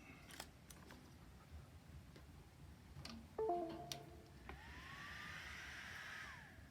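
NEJE laser engraver's stepper motors making a grinding noise: a few clicks, a brief buzzing of several tones, then a motor whine that rises in pitch, holds steady with a gritty grinding hiss over it, and falls away near the end.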